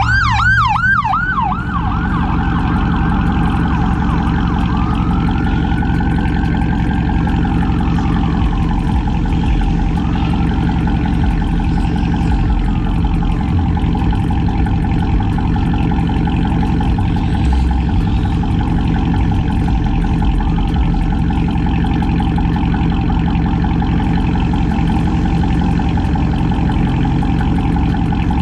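Chrysler 300C's cammed, catless, straight-piped Hemi V8 exhaust running with a steady low drone. An emergency-vehicle siren yelps rapidly and cuts off about a second and a half in, then slower, fainter wailing sweeps come and go for several seconds.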